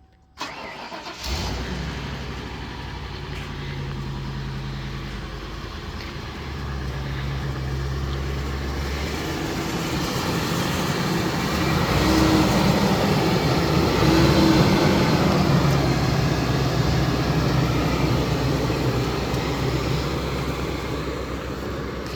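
2002 Ford E350 box truck's engine cranking briefly and catching, then running steadily. From about eight seconds in it runs louder and faster, easing back slightly near the end.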